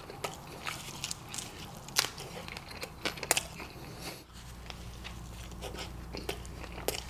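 Close-up eating sounds: a person chewing and biting food, with irregular sharp mouth clicks and crackles throughout. A steady low hum comes in about four seconds in.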